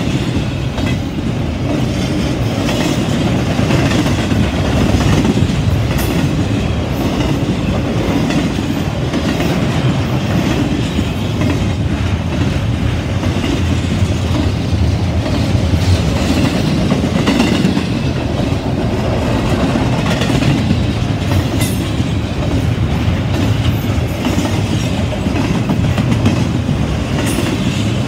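Double-stack intermodal freight train's well cars rolling steadily past at close range: a continuous rumble of steel wheels on rail, with a few scattered clicks.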